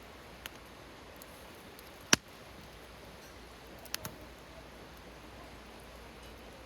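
Campfire crackling: a few sharp pops from the burning wood over a faint steady hiss, the loudest pop about two seconds in and a quick pair near four seconds.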